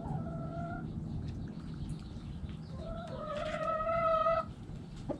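Chickens calling: a short drawn-out call right at the start, then a longer, steady, high call of about a second and a half midway through, over a low steady rumble.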